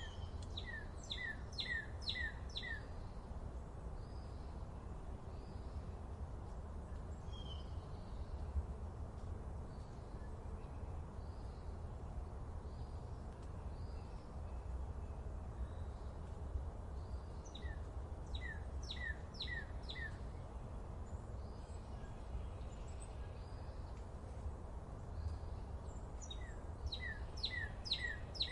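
Forest birdsong: a bird sings a short run of about five quick, downward-sweeping whistled notes three times, near the start, a little past halfway and near the end, with a few fainter calls in between. A steady low rumble lies underneath.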